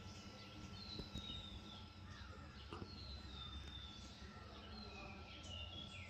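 Wild birds calling in a garden: thin, high whistles that slide down in pitch, repeated every couple of seconds, with shorter chirps in between. A faint steady hum and a low background rumble sit underneath.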